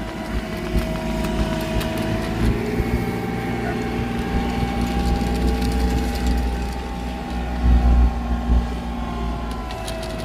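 Engine of heavy paving machinery running steadily, with a higher whine that drifts slightly in pitch and a few low thumps about eight seconds in.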